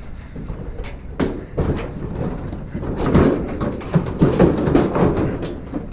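Scrap items being handled and loaded, knocking and clattering: a few separate knocks early on, then a busy run of bangs and rattles in the second half.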